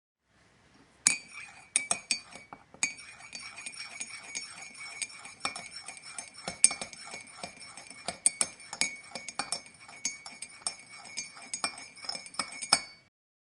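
Hard objects clinking together over and over: quick, irregular chinks, each with a short high ringing after it. It starts about a second in and stops near the end.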